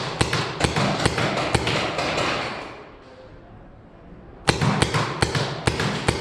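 Rapid paintball marker fire: two volleys of sharp pops, several shots a second, with a lull of about two seconds between them.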